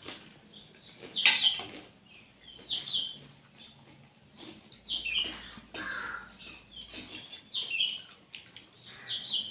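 Small birds chirping in short, repeated calls, over the eating noises of pani puri being crunched and slurped. The loudest eating noise comes about a second in.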